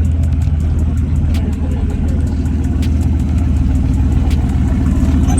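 A car engine running, a steady low rumble.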